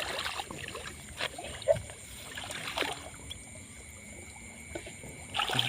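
Water splashing and sloshing in several short, irregular bursts, the loudest near the end.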